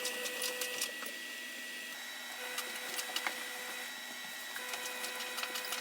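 Bread dough frying in a pan, with irregular small crackles and pops over a steady faint sizzle.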